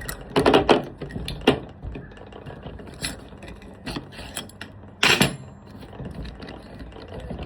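Metal clinks and clatter of angle grinder parts being handled as a wire wheel is fitted, with sharp knocks about half a second in and again about five seconds in.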